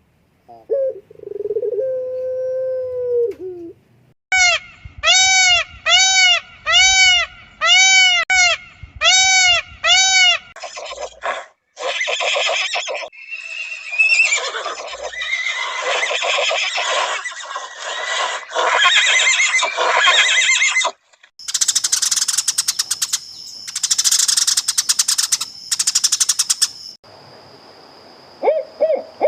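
A run of different animal calls one after another: a drawn-out call, then a short call repeated about twice a second, then harsher noisy calls, then rapid high clicking and a thin high steady tone near the end.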